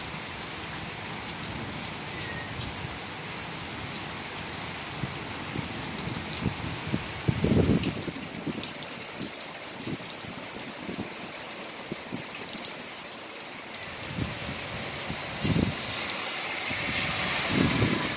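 Steady heavy rain falling on pavement and standing water, with a few brief low rumbles. Near the end a car drives through the flooded street, its tyres hissing through the water.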